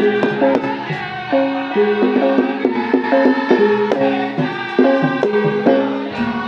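Javanese gamelan ensemble playing an opening gending: interlocking struck bronze metallophone notes ring in layered patterns, punctuated by sharp drum strokes.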